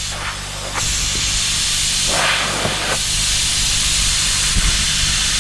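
Brazing torch flame hissing steadily while the filter drier and capillary tube joint on a refrigerator's refrigerant line is heated for brazing. The hiss gets louder about a second in.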